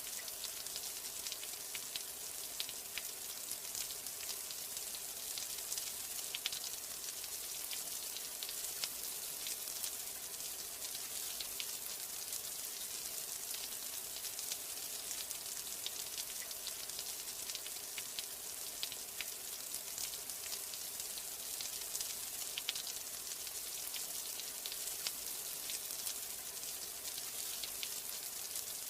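Steady rain: an even hiss of falling drops with frequent sharper ticks of single drops striking.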